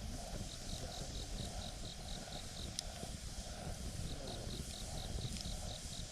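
Wood campfire crackling, with one sharp pop near the middle. Over it an insect chirps high and evenly, about four chirps a second, in two runs of about two seconds each.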